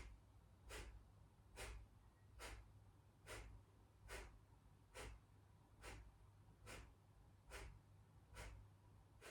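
Kapalabhati breathing: a steady series of short, sharp exhales forced out through the nose by inward pumps of the low belly, a little faster than one a second, with the inhales passive and almost silent between them. The puffs are faint.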